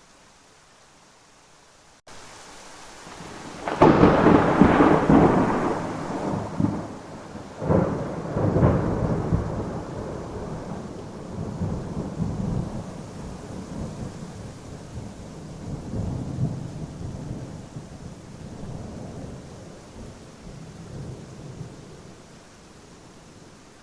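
Thunder during a rainstorm: a loud crack about four seconds in and another about four seconds later, then a long rolling rumble that slowly fades, over rain hiss.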